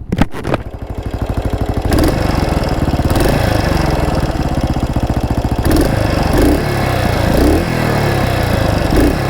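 1982 Yamaha SR400's single-cylinder 400cc engine running with the bike stopped, its beat likened to a lawn mower. The engine gets louder about two seconds in and swells briefly a few times after that.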